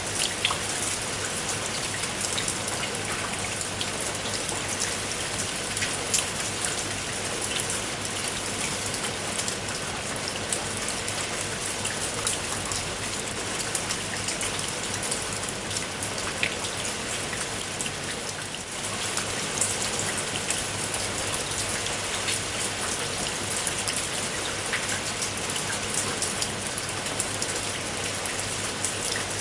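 Steady rain falling, with many individual drops heard as sharp taps through it. The level dips briefly about 18 seconds in, then carries on as before.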